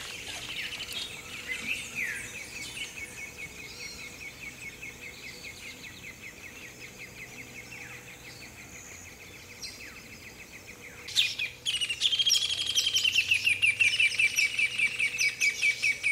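Birds chirping in rapid, repeated trills. After a brief sharp noise about eleven seconds in, the chirping becomes much louder.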